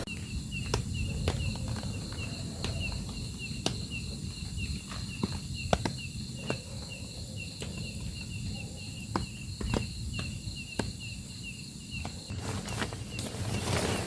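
An insect chirping steadily, about three short high chirps a second, over a low steady rush, with scattered sharp ticks. The chirping stops about twelve seconds in as a louder rush comes up.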